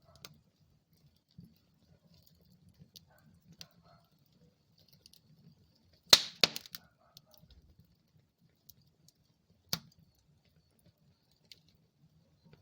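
Wood fire burning in a fireplace with faint, sparse crackling. A sharp loud pop comes about six seconds in, followed by a few quick crackles, and another pop comes near ten seconds.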